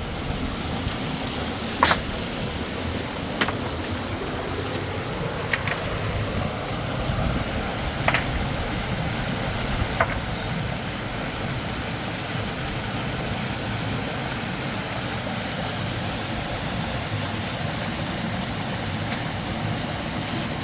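Steady rushing of river water, with a handful of sharp knocks or clicks in the first half.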